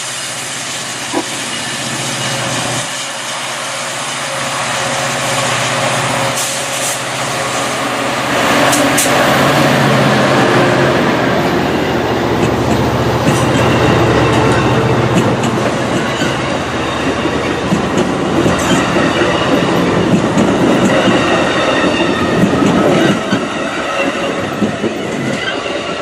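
A train rolling past on the track: a heavy rumble of wheels on rail with clickety-clack and some wheel squeal. It grows louder over the first several seconds and eases off near the end.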